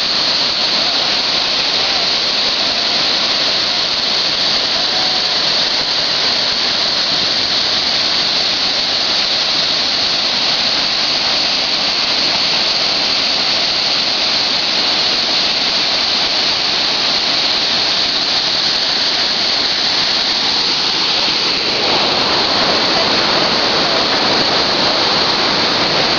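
A waterfall rushing in a steady, loud roar of falling water. About three quarters of the way through, the rush turns fuller and slightly louder.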